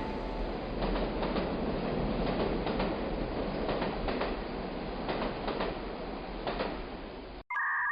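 Steady mechanical clattering rumble with scattered clicks, cutting off suddenly near the end.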